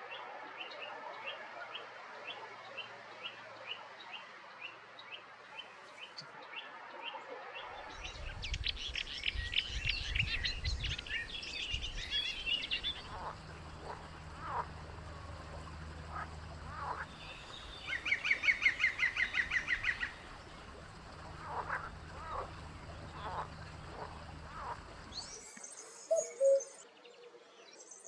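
Wild birds singing and calling in several short recordings in turn. First comes a steady series of high ticking notes, about three a second. Then fast trills and a rapid run of sharp notes play over a low rumble, and near the end there is a lower call of two notes.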